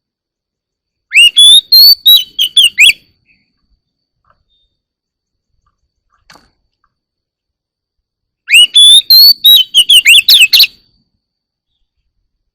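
Oriental magpie-robin singing: two loud phrases of clear whistled notes that rise and fall, each about two seconds long, the first about a second in and the second about eight seconds in, with silence between.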